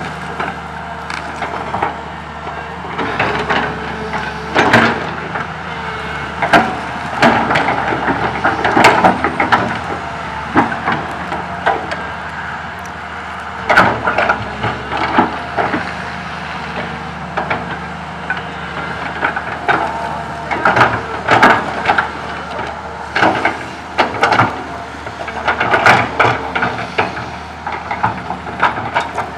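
Komatsu PC200 excavator's diesel engine running steadily under repeated clusters of branches cracking and snapping, each lasting a second or two, as the bucket scoops up brush and drops it into a ten-wheel dump truck.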